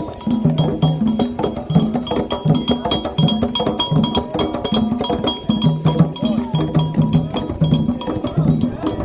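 Candomblé toque: atabaque drums playing a dense, even rhythm over a ringing agogô bell pattern.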